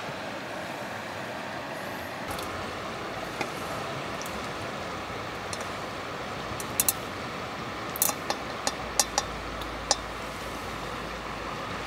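Short light clicks and clinks of eating utensils against a pot or bowl, a few scattered and then several in a row, over a steady hiss of wind and passing traffic.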